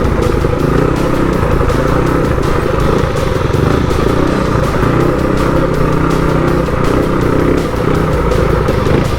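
Motorcycle engines running steadily, with music playing along with them.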